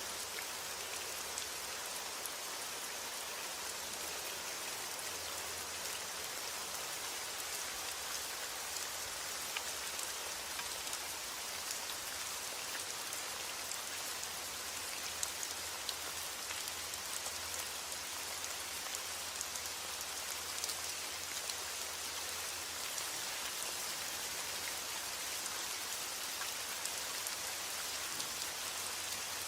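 Heavy rain falling steadily on a roof, a dense hiss of drops with scattered sharper individual drips.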